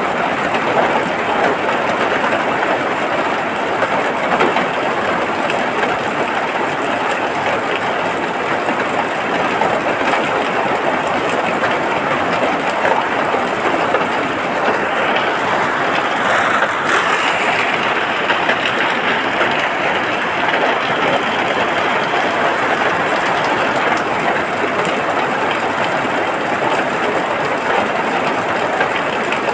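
Steady rain, a dense even hiss, swelling slightly heavier about halfway through.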